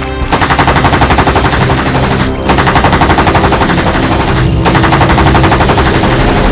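Three long bursts of rapid automatic gunfire, about ten shots a second, with short breaks about two seconds in and again about four and a half seconds in, over sustained music.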